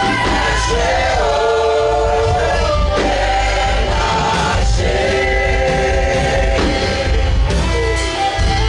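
Gospel worship song: singers with a band, the voices holding long, sliding notes over a steady bass.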